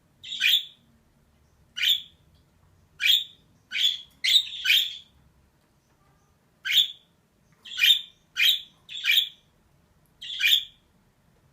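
Female budgerigar calling: about eleven short, harsh chirps in irregular bursts, with a pause of nearly two seconds midway.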